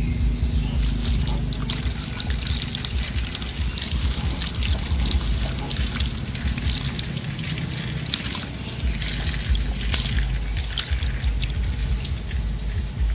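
Water trickling and splashing, with a steady low hum underneath.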